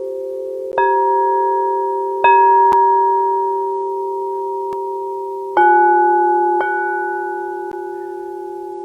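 Singing bowls struck four times, each strike ringing on with a long, slowly fading tone that overlaps the last; the third strike brings in a lower-pitched bowl.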